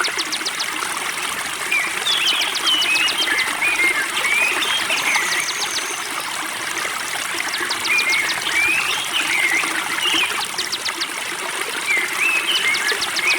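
Spring water trickling steadily, with a songbird singing over it. Every few seconds the bird repeats a phrase of short chirpy whistles followed by a fast dry trill.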